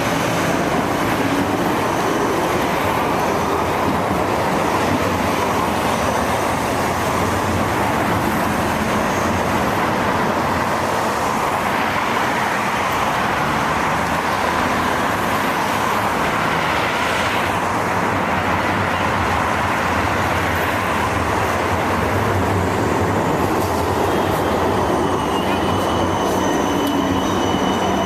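Steady roar of a tram and street traffic at a city tram stop. A thin high-pitched squeal of steel wheels on the rails comes in near the end.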